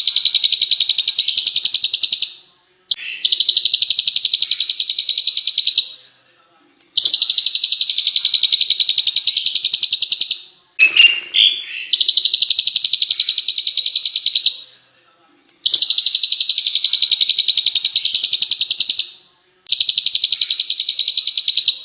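Songbird song in long, rapid, even trills, each lasting three to four seconds with short pauses between, five in all. Just before the middle a brief, different call with a short rising note cuts in.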